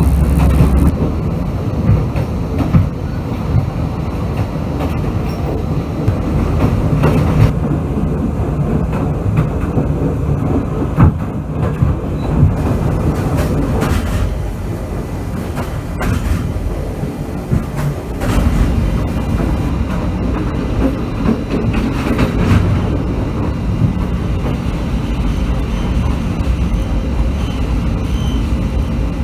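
Passenger train running, heard from on board: a steady rumble of the coaches with wheels clattering over rail joints and sharp knocks now and then.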